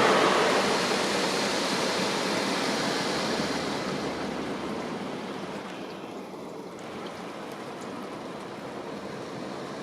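Ryko Softgloss MAXX in-bay automatic car wash running, a steady rushing of spray or air that fades gradually over several seconds.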